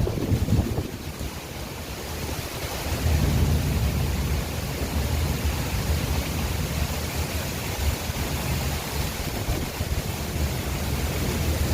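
Heavy rain falling as a steady hiss, with a low, uneven rumble underneath that dips briefly about a second in.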